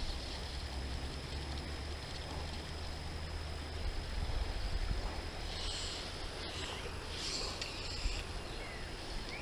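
Outdoor ambience: a steady low rumble of wind on the microphone, with a few brief, faint high chirps.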